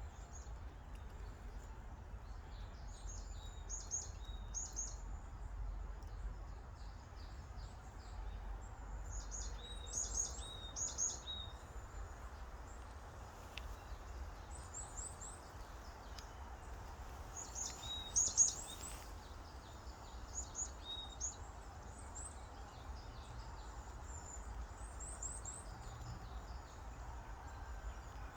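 Small songbirds singing in woodland, repeated phrases of quick, high chirps every few seconds, over a steady low background rumble.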